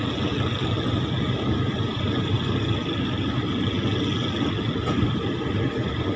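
Steady rumble of a passenger train rolling slowly out of a station, heard from inside a carriage, with a faint steady high hum over it.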